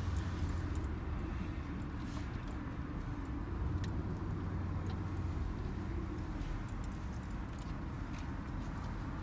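Pickup truck heard from inside the cab while creeping slowly through a parking lot: a steady low engine and road hum, with a few light clicks and rattles.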